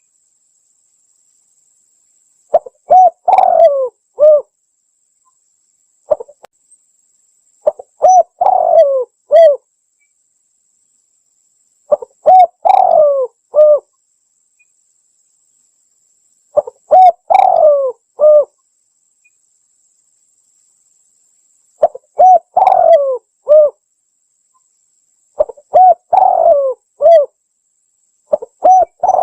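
Spotted dove (tekukur) cooing: a phrase of several short coos, repeated about every four to five seconds, seven times, with silence between phrases.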